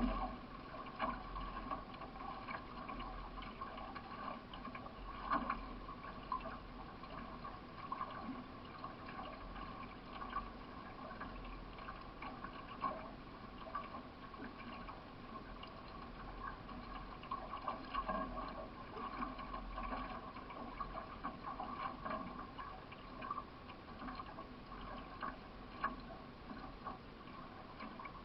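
Water rushing and gurgling along the hull of a solo racing canoe under way, with irregular short splashes and knocks from paddle strokes.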